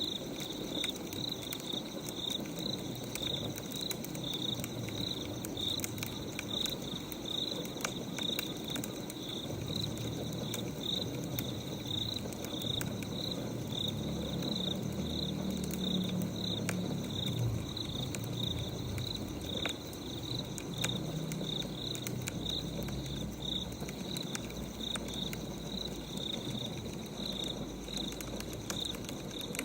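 A cricket chirping steadily, about two chirps a second, over the faint scattered crackle of a wood fire. A low rumbling sound joins about a third of the way in and fades before the last quarter.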